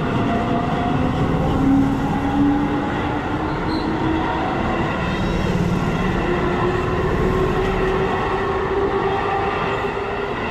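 A Japanese train running along the track, a steady rumble with a tone that rises slowly in pitch as it gathers speed.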